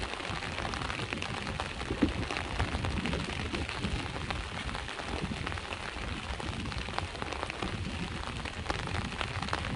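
Steady rain falling on a hard surface, a dense patter of drops over a low rumble, with one sharper drop or tap about two seconds in.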